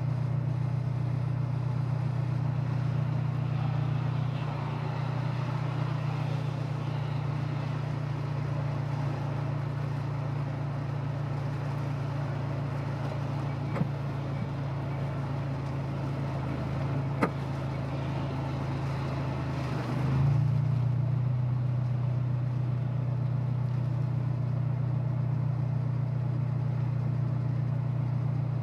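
Honda S2000's four-cylinder engine and road noise heard from inside the car at a steady cruise, a low steady drone. Two sharp clicks come midway, and the engine sound swells briefly about twenty seconds in.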